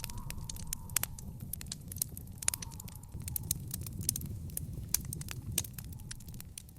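Wood fire in an outdoor fire pit crackling: irregular sharp pops and snaps over a steady low rumble of the flames, with a faint hiss now and then.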